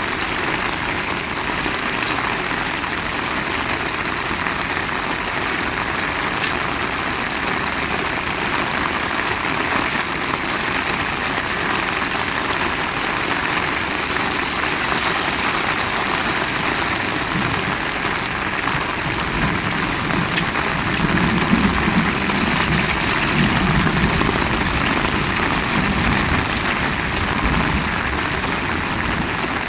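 Heavy rain falling steadily and hard. A low rumble rises under the rain from about two-thirds of the way in and fades again near the end.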